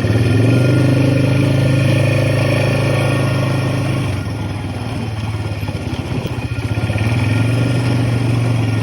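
ATV (four-wheeler) engine running on the move, with the throttle eased off about four seconds in and opened again near the end.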